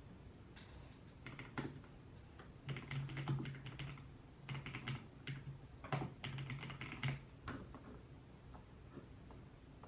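Typing on a computer keyboard: quick runs of soft keystrokes in uneven bursts with short pauses between them, tapering off near the end.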